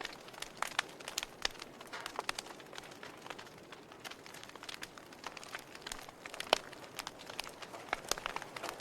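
Wood campfire crackling: irregular sharp pops and snaps over a soft steady hiss, with one louder pop about six and a half seconds in.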